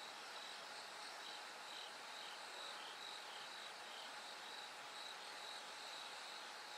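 Bell crickets singing: short, high ringing chirps repeating a few times a second, with a second, slightly lower-pitched voice chirping now and then, over a faint steady hiss.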